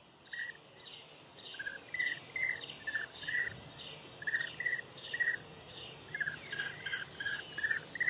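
Birds chirping: short, repeated chirps, soft at first and growing faster and louder toward a crescendo.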